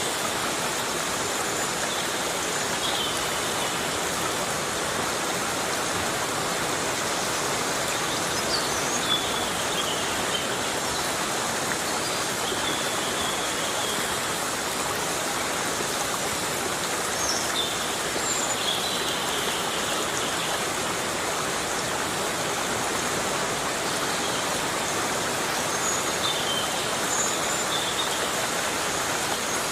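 Heavy rain falling steadily on a tropical forest, an even hiss of water. A few short, high-pitched chirps sound now and then over it.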